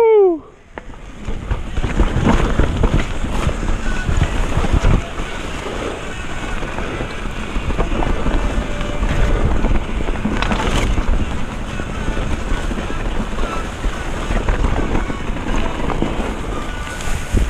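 Mountain bike descending a wet downhill trail, with wind buffeting the helmet or bike camera's microphone and a dense rumble from tyres and the rattling bike. A short falling squeal sounds right at the start.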